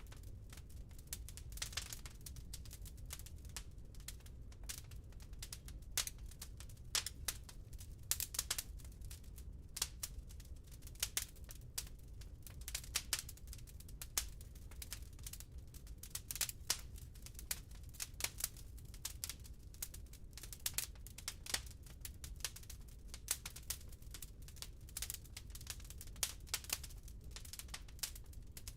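Firewood burning in a fireplace, crackling with irregular sharp snaps over a steady low rumble of the fire.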